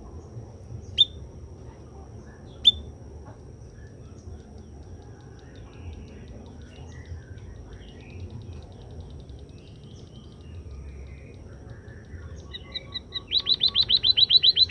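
White-headed munia (emprit kaji) calling: two single sharp chirps about a second apart early on, a faint rapid ticking series in the middle, then a loud fast run of repeated chirps starting about two seconds before the end.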